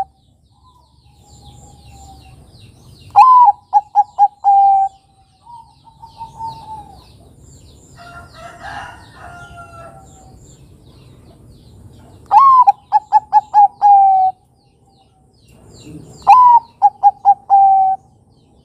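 Bangkok-type perkutut (zebra dove) cooing its song three times, each phrase a rising first note, a quick stutter of short notes and a longer held final coo. Fainter bird chirps and calls sound between the phrases.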